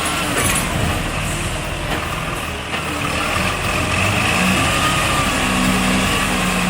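Heavy machine's engine running steadily, with a faint high whine that wavers in pitch over it.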